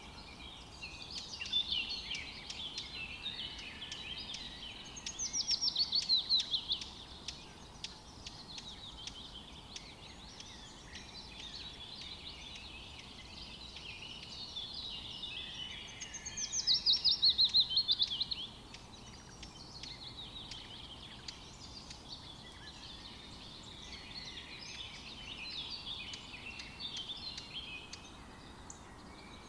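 Forest birdsong: several songbirds chirping and warbling over a faint steady hiss. Twice, about five seconds in and again about sixteen seconds in, a louder song of rapid notes runs quickly down in pitch.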